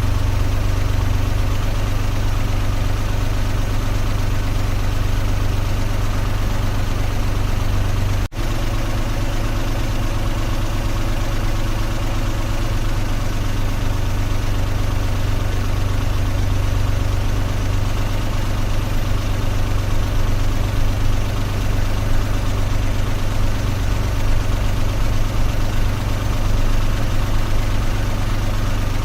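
Car engine running steadily, a low even hum, with a momentary dropout about eight seconds in.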